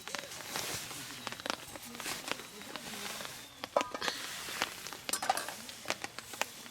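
Irregular clicks and taps over a soft steady hiss, with a couple of brief ringing clinks.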